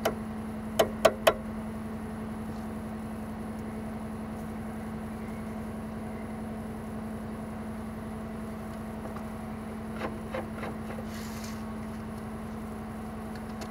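Brake pads being worked into a front disc-brake caliper bracket of a Chery QQ: three sharp knocks about a second in and a few fainter ones near the end, over a steady low hum.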